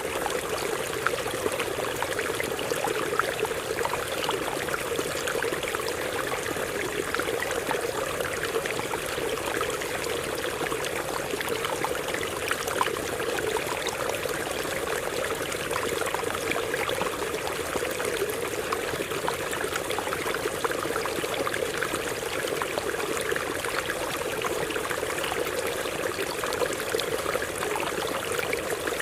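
Stream of water running over rocks: a steady, even rush with many small splashes and gurgles through it.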